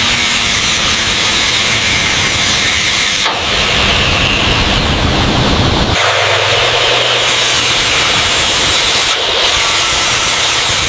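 Loud, steady rushing of a waterfall, changing abruptly several times as if between separate recordings.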